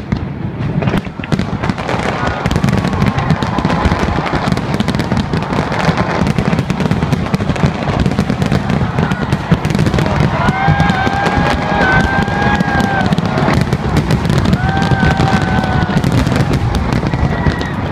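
Aerial fireworks display: a dense, continuous barrage of shell bursts and crackling. From about ten seconds in, long pitched whoops or whistles sound over it.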